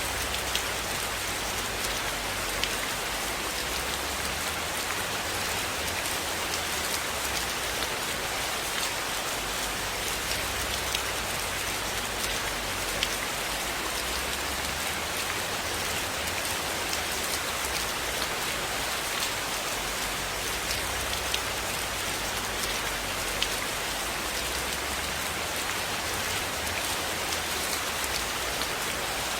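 Steady rain falling on a surface, an even hiss with many scattered sharp ticks and an occasional louder one.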